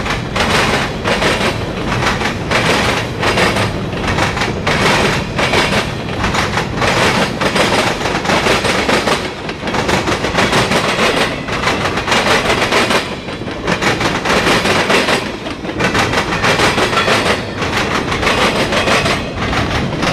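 Freight cars of a CSX local mixed freight train rolling past, their wheels clattering over the track in a repeating rhythm.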